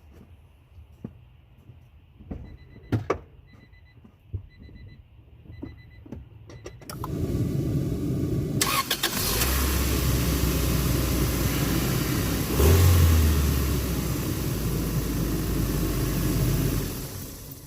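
A few clicks and a short repeating beep, then about seven seconds in the Acura Integra's four-cylinder engine is cranked by the starter and catches. It runs steadily with a brief rise in revs partway through, then falls away near the end. The car has a random hard-start and idle problem.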